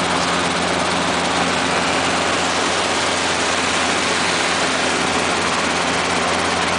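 Robinson R22 helicopter's piston engine and rotors running in flight: a steady, unchanging drone with a constant low hum under a broad hiss.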